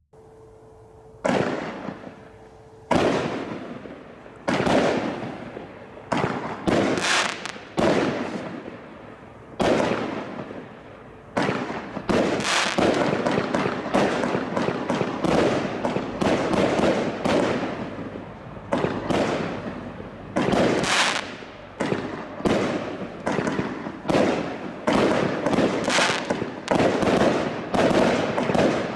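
A 49-shot 1.3G firework cake barrage firing: a string of sharp bangs, each trailing off, starting about a second in, spaced out at first and then coming faster and overlapping from about twelve seconds in.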